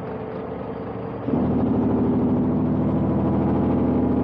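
Kenworth C500 truck's Cummins diesel heard from inside the cab, running quietly at first; about a second in it gets much louder and holds a steady, even note as the throttle goes on and it pulls a heavy load of cement bins.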